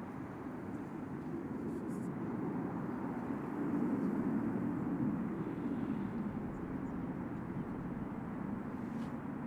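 Jet aircraft passing overhead with a rumbling roar that builds to a peak midway and then fades as it moves away.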